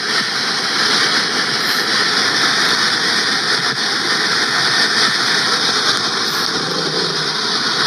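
Robot vacuum (Roomba) running, a steady mechanical whirring noise.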